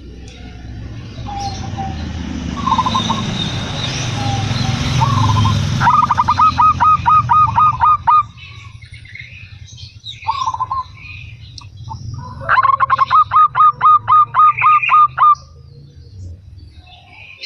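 Zebra dove (perkutut) cooing in two quick runs of repeated, clipped notes, about five a second, each run lasting two to three seconds, with a few single coos before them. A rising hiss with a low rumble fills the first few seconds, and small birds chirp faintly in the background.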